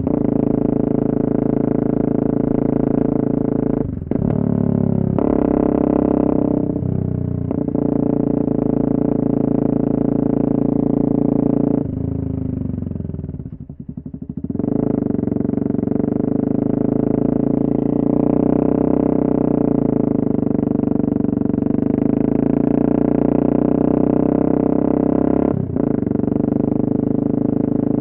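Yamaha MT-03 660's single-cylinder engine through an exhaust with the dB-killer removed, riding at steady revs. It dips briefly for gear changes about four and seven seconds in and again near the end. About halfway it drops to low revs and chugs off the throttle, then pulls away again.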